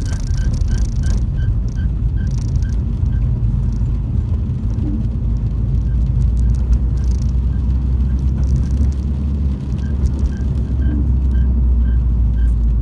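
Accessory drive belt on a running MINI engine chirping in a regular rhythm, about two short high chirps a second over the engine's low rumble. This is the belt squeal the owner is showing. The chirps fade out in the middle and come back near the end.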